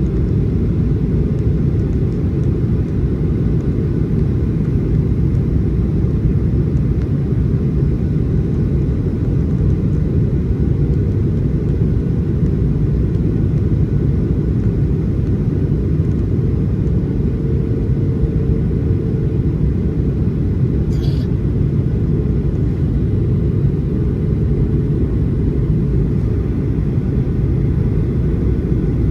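Steady low rumble of a Boeing 737-800's engines and airflow, heard inside the passenger cabin. A faint, brief higher sound comes about two-thirds of the way through.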